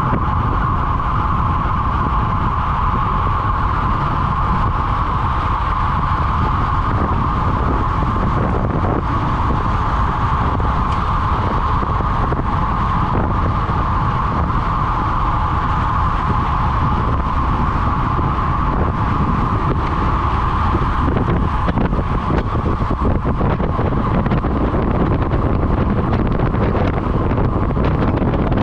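Steady wind rush on the microphone and road rumble from a road bike riding at speed, with a constant mid-pitched hum over it.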